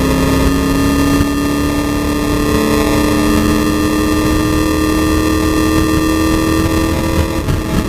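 Race car engine under full load, heard from inside the stripped, caged cabin over heavy road and wind noise. Its note climbs slowly and steadily through the gear, then drops near the end.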